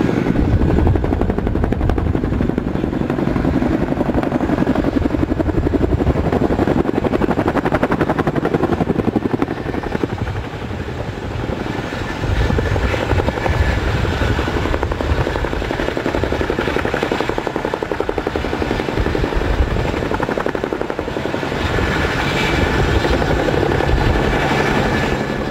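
Helicopter flying close by, loud and steady, its rotor beat chopping rapidly over engine noise, dipping slightly in loudness about ten seconds in before rising again.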